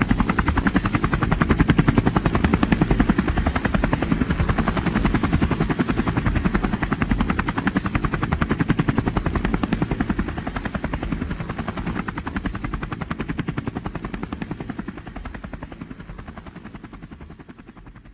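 A loud, steady, rapid mechanical pulsing that fades away over the last few seconds.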